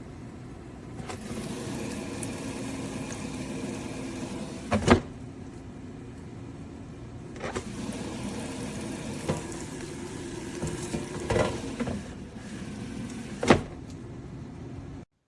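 A steady machine hum that cuts off abruptly near the end, with five sharp knocks or clicks over it, a few seconds apart.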